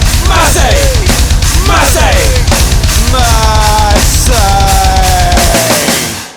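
Loud heavy rock instrumental from a band with drums, bass and electric guitar, with notes sliding and bending in pitch. The bass and drums stop about five and a half seconds in and the music dies away at the end.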